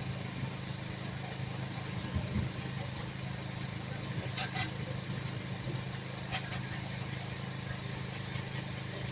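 An engine running steadily at idle, a low even hum, with three short sharp clicks around the middle.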